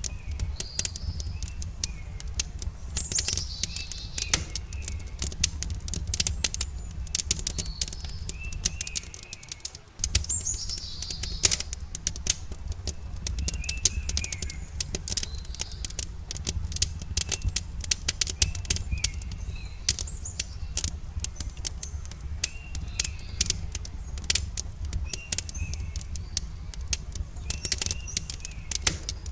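Campfire crackling with dense sharp pops over a steady low rumble, with birds chirping and giving falling whistles in the background. The sound fades briefly and cuts back in suddenly about ten seconds in.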